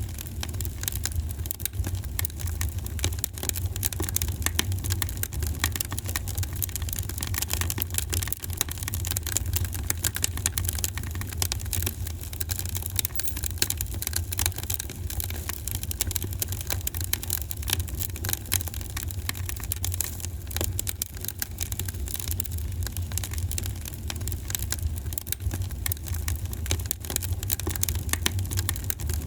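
Fireplace fire crackling steadily, many small snaps and pops over a constant low rumble.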